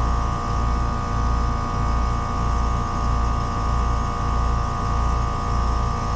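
Trane two-stage heat pump outdoor unit running in second stage, compressor and condenser fan on: a low hum that swells and fades about one and a half times a second, under a steady high whine. Suction pressure is falling and head pressure rising, a sign of the electronic expansion valve not regulating in second stage.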